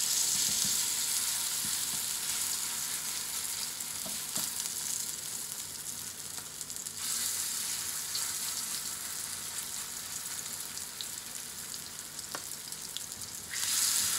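Vegetable fritter batter sizzling in hot oil in a cast iron skillet. The sizzle swells as fresh spoonfuls of batter go into the pan, about seven seconds in and again near the end.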